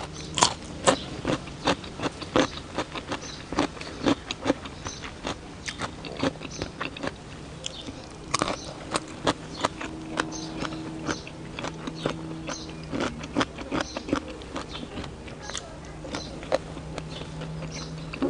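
Close-up chewing of a raw carrot stick: a long run of sharp, irregular crunches, with a faint low hum now and then.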